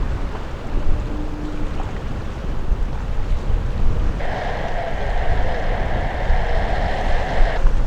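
Wind buffeting the microphone, a heavy low rumble with gusts throughout. About four seconds in, a steady buzzing hiss switches on abruptly and cuts off just as sharply about three and a half seconds later.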